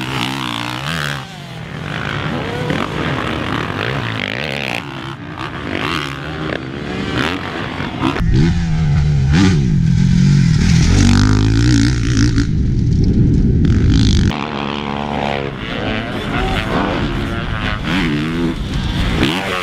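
450 motocross bike engine revving up and down as it is ridden, pitch rising and falling through the gears. A louder stretch from about 8 to 14 seconds starts and stops abruptly.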